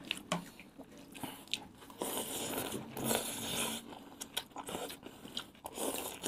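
Several people biting into and chewing burgers close to the microphone: short wet clicks and smacks, busiest from about two to four seconds in.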